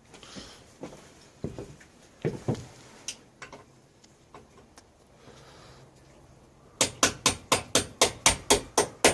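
Hammer blows on a pocket bike part: a few scattered knocks at first, then a fast run of about a dozen sharp strikes near the end.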